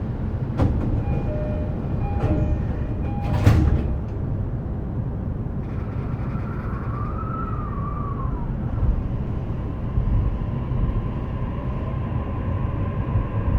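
E233-series electric train's doors closing, with a short chime and knocks, the doors shutting with the loudest thud about three and a half seconds in; then the traction motors start to whine, the pitch rising as the train pulls away, over a steady low rumble.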